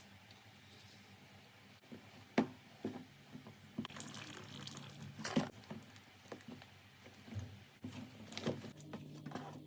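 Slime being handled, with scattered sticky pops and crackles over faint wet squishing; the loudest pops come about two and a half and five and a half seconds in.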